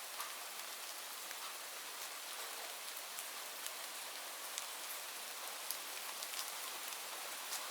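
Steady rain falling, an even hiss with many small, distinct drop ticks scattered through it.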